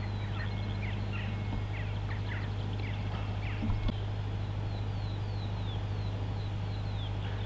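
Small birds chirping, with short quick falling calls repeated about twice a second in the second half, over a steady low hum.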